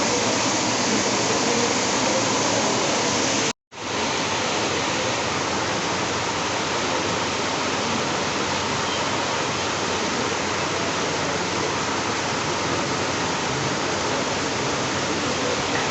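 Heavy rain pouring down in a dense, steady hiss. It cuts out completely for a moment about three and a half seconds in, then comes back.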